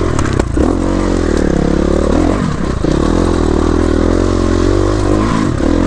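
Dirt bike engine revving up and down under the rider's throttle, dipping briefly about two seconds in and again near the end. A few sharp clacks come about half a second in.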